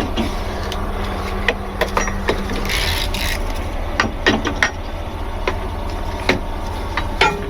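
Truck engine idling steadily, with scattered knocks and clanks of rigging gear and a brief hiss about three seconds in.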